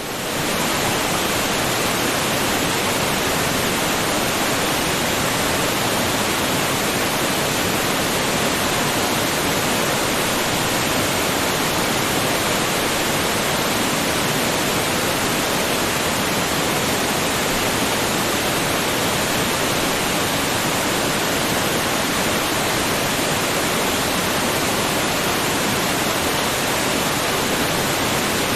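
Waterfall: falling water making a steady, even rush that fades in at the very start and then holds unchanged.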